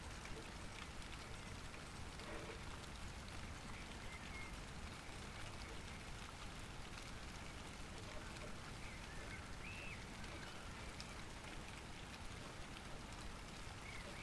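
Light, steady rain, with individual raindrops ticking sharply close to the recorder over the even hiss of the falling rain.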